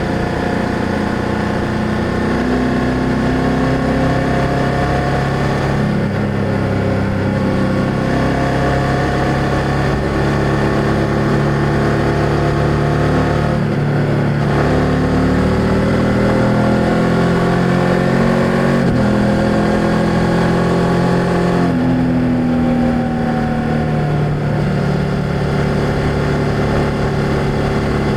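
BMW F800GS parallel-twin engine and exhaust under way, its pitch climbing and falling with several sudden breaks as the bike accelerates and changes gear, then easing off near the end.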